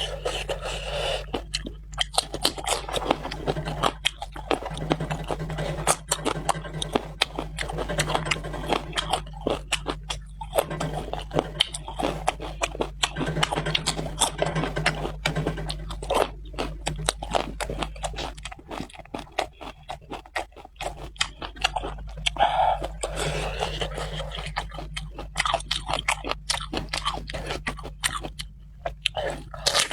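Close-miked chewing and crunching of food: a dense, continuous run of crisp clicks and crunches from the mouth.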